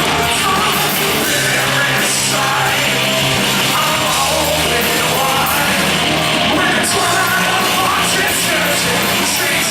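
A heavy rock band playing live and loud, with distorted guitars, bass, drums and yelled, shouted vocals.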